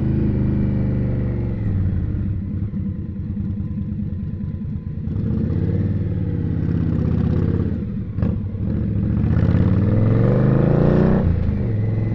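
Indian Scout's V-twin engine pulling through traffic: the revs fall near the start, then rise twice as the bike accelerates, the second climb the strongest before the engine speed drops off near the end. A sharp click about eight seconds in.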